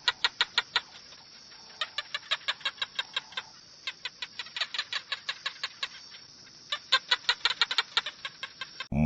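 Chicken clucking: rapid runs of short, sharp clucks, about six a second, in four bursts with brief pauses between them.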